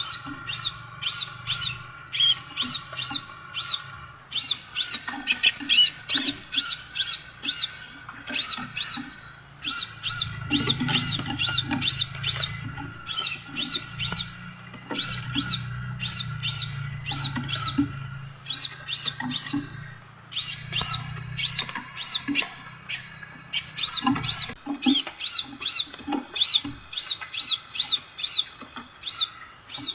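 Sepah raja songbird singing long runs of rapid, sharp, high chirps, several notes a second, broken by short pauses.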